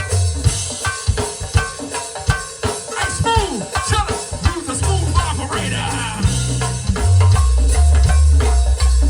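Live gospel band playing: drums and hand percussion keep a quick, steady beat, deep bass notes come in about five seconds in, and the music gets louder about two seconds later.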